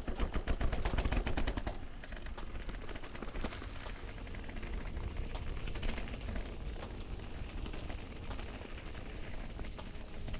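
Mountain bike rattling over a rough forest singletrack: a rapid run of clattering clicks in the first two seconds, then steady trail noise with scattered knocks, over a low rumble of wind on the microphone.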